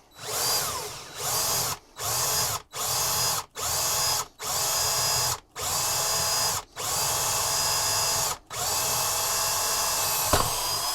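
Electric drill with a 10 mm bit boring a hole, run in repeated short bursts of about a second with brief stops between them, its pitch climbing as each burst starts, then one longer run near the end.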